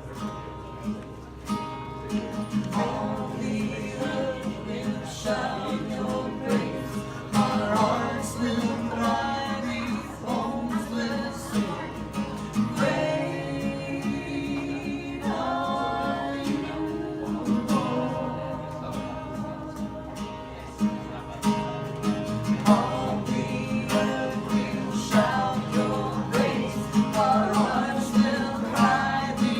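Singing with guitar accompaniment: several voices carry a melody over strummed or plucked guitar.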